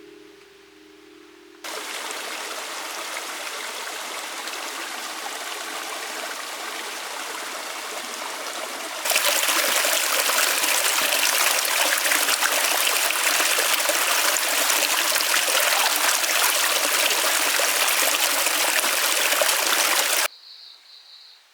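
Steady rushing of a flowing mountain stream, in two cuts: the second, from about 9 s in, is louder. It stops abruptly near the end.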